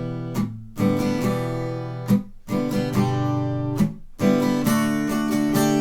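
Acoustic guitar strummed in the gallop pattern, triplets of down-up-down strokes with the third stroke accented, through the Em–G–D–Am progression. Brief drops between chords mark the left-hand changes.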